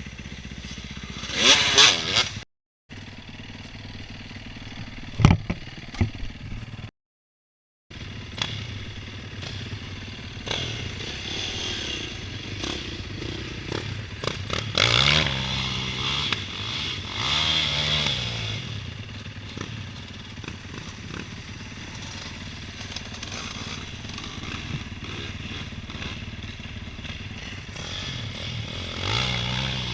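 Dirt bike engine running and revving, its pitch rising and falling several times as the throttle opens and closes, with a sharp knock about five seconds in. The sound cuts out completely twice in the first eight seconds.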